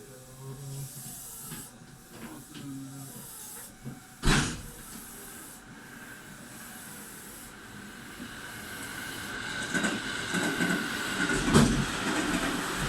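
Electric train standing at a station platform: air hissing, one sharp loud clunk about four seconds in, then a rumble that builds with a faint steady whine and a few knocks in the second half.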